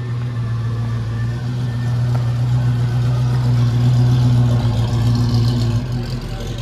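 Classic car's engine running close by as it pulls out, a steady low rumble that swells about midway and eases off near the end.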